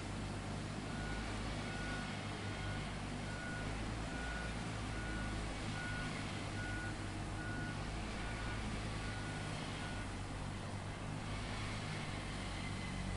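A heavy machine's reversing alarm beeping at a steady single pitch, about one beep every 0.8 seconds, over the low steady running of its engine. The beeps stop about ten seconds in while the engine keeps running.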